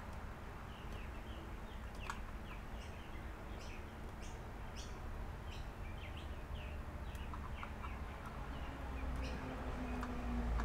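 Small birds chirping in many short, falling chirps at an irregular pace, over a steady low hum, with a few faint clicks.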